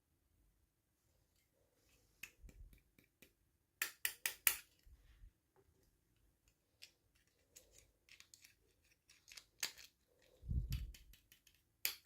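Small plastic toy packaging and pieces being handled: scattered sharp clicks and taps, a quick run of four louder clicks about four seconds in, and a dull thump about ten and a half seconds in.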